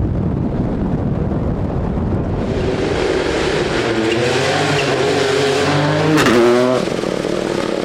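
Rally car approaching at full throttle, its engine note climbing, loudest as it passes about six seconds in with a sharp crack, then the pitch drops steeply as it goes by. Wind rumbles on the microphone before the car arrives.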